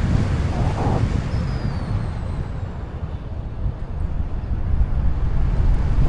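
Wind rushing over the camera microphone in flight under a paraglider: a loud, uneven low rumble of buffeting air.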